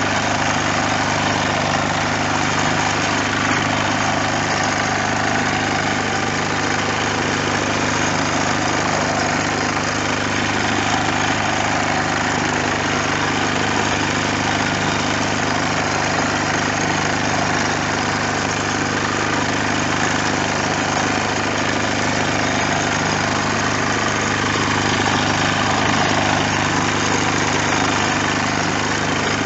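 Bertolini 402 diesel engine running steadily at an even speed.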